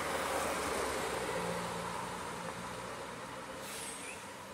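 Zenvo ST1 supercar's twin-charged V8 running at low revs as the car drives slowly past, over street noise; the sound fades a little toward the end.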